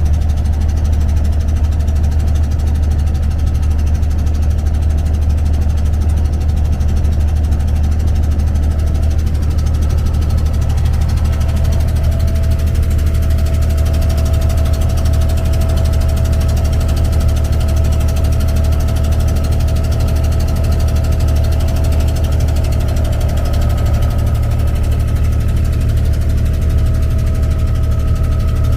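Abra boat's diesel engine running steadily, a loud low drone, with a faint steady whine coming in partway through.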